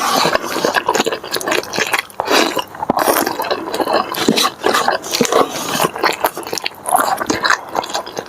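Close-miked eating sounds: chewing, as a dense run of quick clicks and short noisy smacks.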